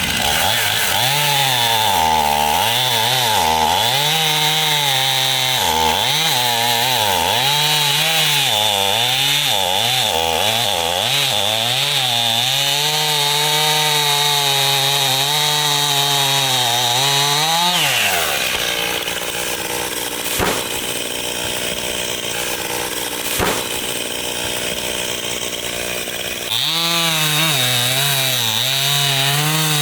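Stihl chainsaw cutting firewood at full throttle, its engine pitch dipping and recovering as the chain loads up in the wood. About eighteen seconds in the throttle is let off and the pitch falls away to a quieter idle, with two sharp knocks, and near the end the saw revs up and cuts again.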